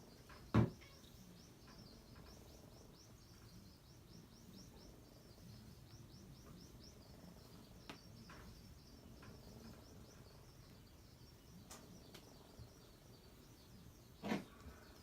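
Faint outdoor ambience with a steady run of rapid high chirps, several a second, and two short sharp thumps, one just after the start and one near the end.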